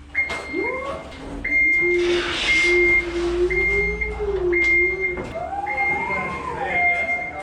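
Back-up style motion alarm beeping steadily, about one long high beep a second, over a lower wavering tone that rises in pitch about five seconds in.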